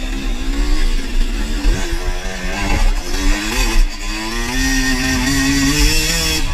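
Dirt bike engine revving, its pitch rising and falling repeatedly with the throttle.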